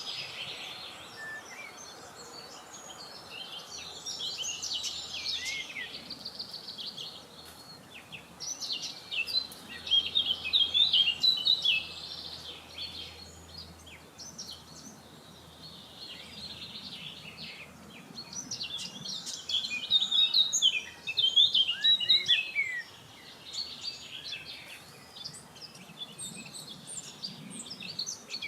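Wild birds singing and chirping in bouts of quick, high trills and twitters, coming and going with short lulls between, over a faint steady outdoor hiss.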